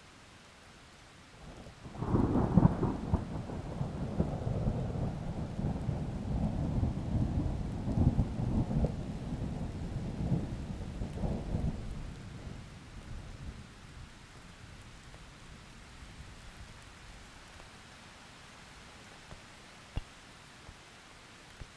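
Thunder: a sudden crack about two seconds in, rolling and rumbling in waves for about ten seconds before dying away, over steady rain.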